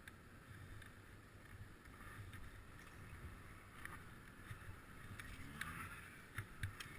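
Faint steady low rumble with a light hiss, broken by a few scattered light clicks.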